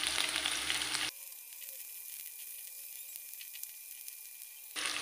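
Sliced shallots, garlic and red bird's-eye chilies sizzling in hot oil in a wok, stirred with a silicone spatula, with a fine crackle. About a second in the sizzle drops to a thinner, quieter hiss, and it picks up again near the end.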